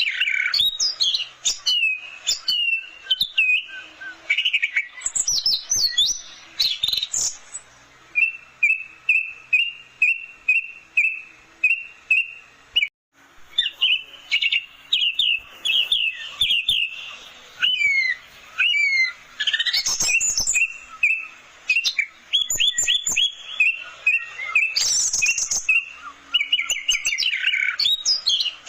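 Orange-headed thrush singing a varied song of quick whistled phrases, with a run of evenly repeated notes, about two a second, in the middle. The song breaks off briefly about thirteen seconds in.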